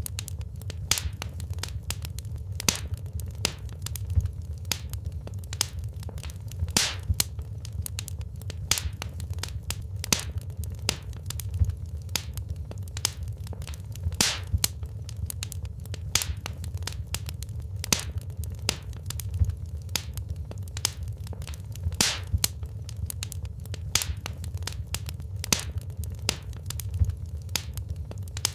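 Wood fire in a fireplace crackling: sharp, irregular pops and snaps of burning logs over a steady low rumble of the flames.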